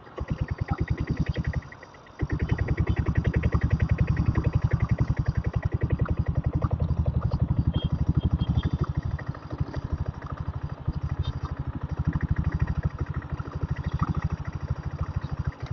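Single-cylinder diesel engine of a Royal Enfield Bullet running under way, a fast, even train of exhaust beats. It falls away briefly about two seconds in, then pulls steadily and louder, easing off near the end.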